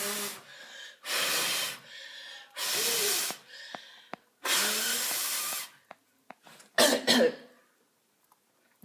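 A person blowing hard on fireplace embers to rekindle them: four long breathy blasts of about a second each, then two short sharp puffs near the end.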